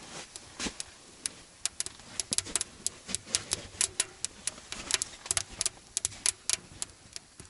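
Footsteps crunching on frozen snow: a quick, irregular run of crisp clicks, several a second.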